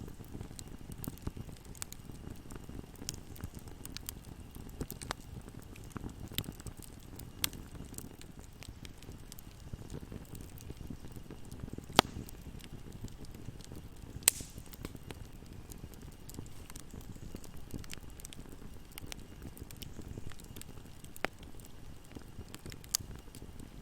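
Wood fire burning in a fireplace: a steady low rumble of flames with scattered crackles and pops, two sharper pops about halfway through.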